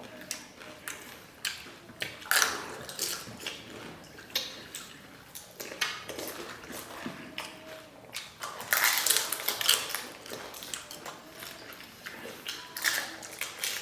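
Pani puri being eaten: crisp, hollow puri shells crunching as they are bitten, with wet chewing, in many short irregular crunches and a louder, denser stretch of crunching about nine seconds in.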